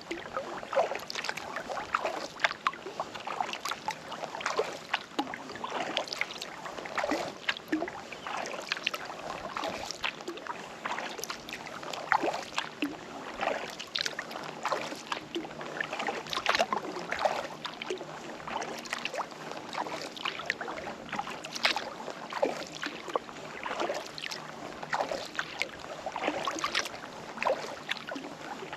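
Kayak paddle strokes: the blades dip and splash into the water again and again, with water dripping and trickling off the paddle between strokes.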